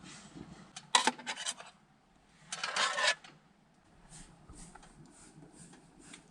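A utensil clicking and scraping against a dish while eating oatmeal: a quick run of clinks about a second in, then a longer scrape halfway through, and a few faint ticks after.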